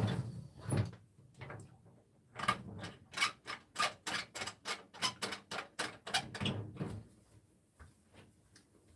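A person chewing crunchy food with the mouth close to the microphone: a steady run of crisp crunches, about three a second, starting a couple of seconds in and stopping near the end.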